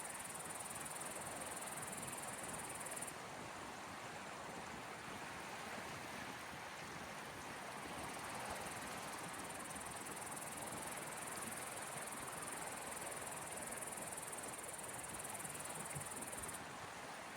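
Gentle sea waves washing on the Gulf of Finland shore in a steady hiss. A high insect buzz stops about three seconds in, comes back about halfway through, and stops again near the end.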